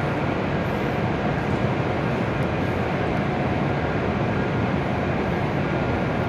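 E7-series Shinkansen trainset standing at the platform with its doors open, its onboard equipment running as a steady hum and hiss with a faint constant whine.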